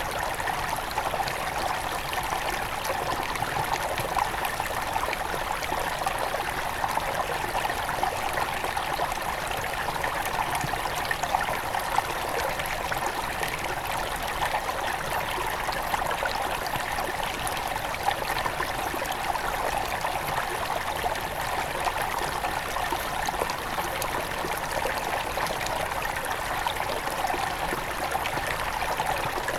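Headwater stream of a forest river flowing and trickling, a steady rush of water that does not change.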